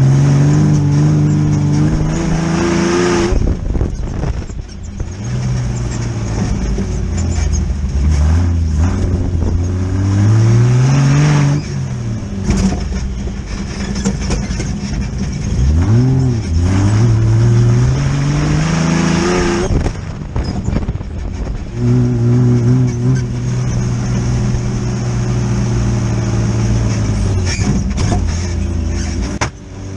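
Air-cooled Volkswagen engine of an off-road buggy being driven hard, the revs climbing and dropping several times, then holding steady for several seconds about two-thirds of the way through.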